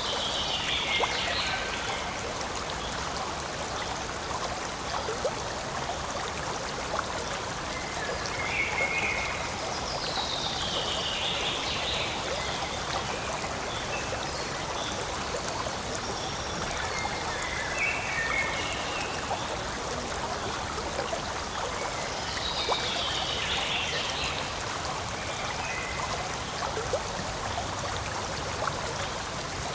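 Forest stream flowing steadily over stones. A short call that falls in pitch comes three times, about every eleven seconds, with fainter chirps between.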